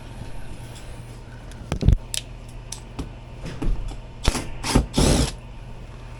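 Hand tools knocking and clicking against metal, a few sharp clanks and one longer scrape near the end, over a steady low hum.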